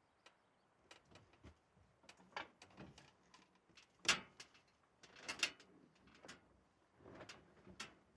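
Irregular clicks, knocks and light rattles of objects being handled, the sharpest knock about four seconds in and a quick cluster about a second later.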